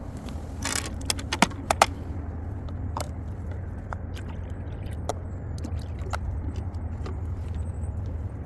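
Outdoor ambience with a steady low rumble of distant traffic. A quick run of sharp clicks and taps comes about a second in, and faint scattered ticks follow.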